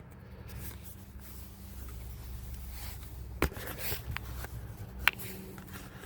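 Faint scraping and rubbing of an exhaust pipe joint being wiggled loose by hand, with two sharp metallic clicks about three and a half and five seconds in, over a steady low hum.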